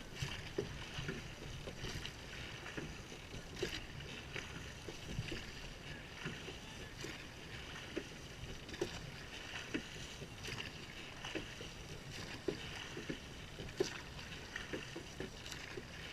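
Rowing boat under way: oars working through the water with scattered small knocks and splashes over a steady rush of water and wind.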